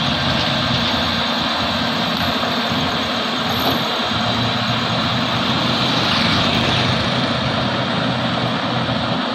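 Heavy diesel engine running steadily and loud, with a broad rushing noise over it.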